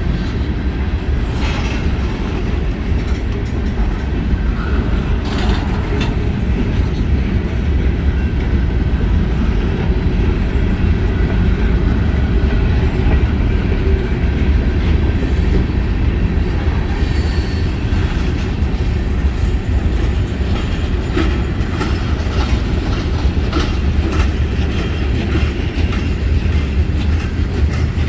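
Freight cars of a long CSX mixed freight train rolling past: a steady heavy rumble, with wheels clacking over rail joints more often in the second half. A brief high wheel squeal comes partway through.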